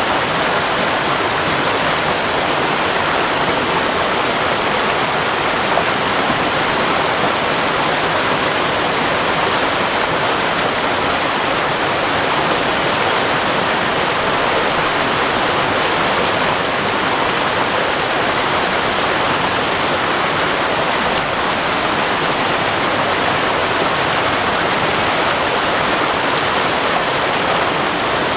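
Waterfall pouring steadily into rock pools, a constant loud rush of falling water without pause or change.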